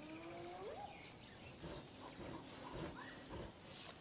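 Spotted hyena whooping: a drawn-out call that rises slowly in pitch and sweeps sharply up at its end within the first second, followed by fainter scattered calls. A faint high chirp repeats about twice a second in the background.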